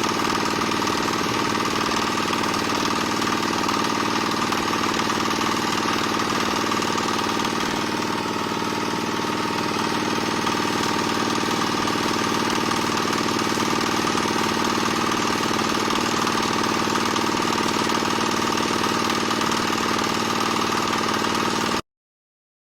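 Diesel engine driving a small single-screw palm oil press, running steadily; the sound cuts off suddenly near the end.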